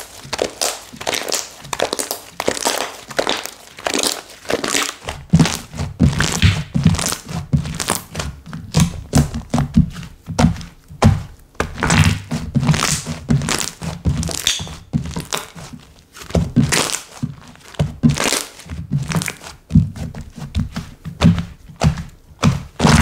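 Slime being pressed, poked and squished by hand, giving a dense, crackly run of clicks and pops, with low thuds joining about five seconds in.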